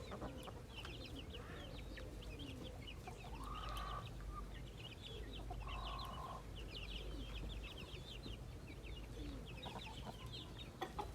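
Chickens clucking softly, with two longer calls, a little before 4 seconds in and at about 6 seconds, over a dense run of quick high chirps.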